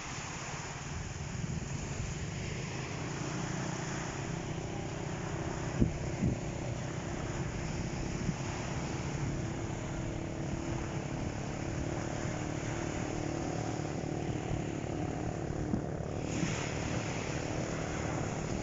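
Motorized bangka (outrigger boat) engine running steadily at speed, with a couple of short knocks about six seconds in.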